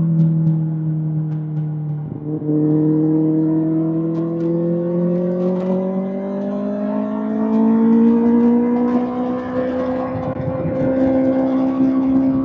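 Kawasaki ZX-6R inline-four engine running through an SC-Project SC-1R aftermarket exhaust. After a brief break about two seconds in, the engine note climbs slowly and steadily in pitch.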